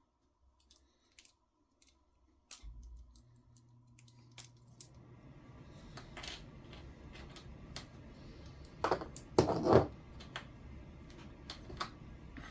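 Small RC steering parts, bell crank bushings and screws, handled and fitted by hand on a workbench: scattered light clicks and taps, with a louder scraping rustle about nine seconds in. A low steady hum comes in after about two and a half seconds.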